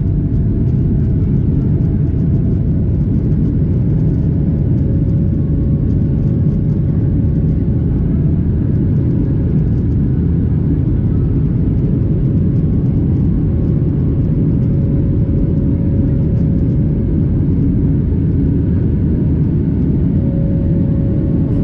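Boeing 737-800's jet engines running at takeoff power: a loud, steady rumble with a faint steady whine above it.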